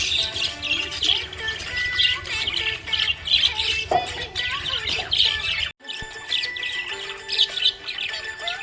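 Budgerigars chirping and chattering continuously: many rapid, high chirps overlapping, with music playing underneath. The sound drops out for an instant a little over halfway through.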